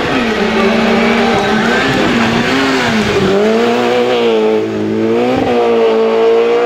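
Peugeot 106 rally car's engine revving hard under racing acceleration uphill. The engine note falls as the car slows for a tight bend about three seconds in, then climbs again, with a quick dip at a gear change near the end.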